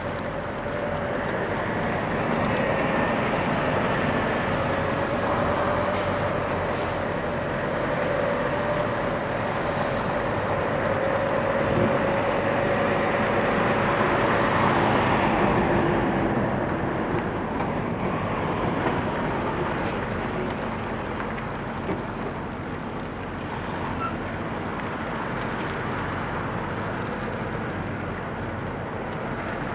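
Semi trucks driving past on a road: a steady traffic noise of engines and tyres that swells about halfway through as one passes close, then eases off.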